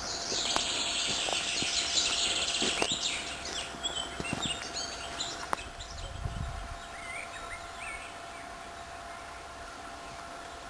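Wild birds singing: a dense burst of high song for the first few seconds, then scattered short chirps. A few light clicks and a low thump about six seconds in.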